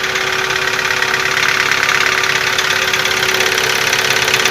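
Nissan QG15DE engine running steadily with a rapid, regular knock. It is a knock that shows on a cold start and has been getting steadily worse.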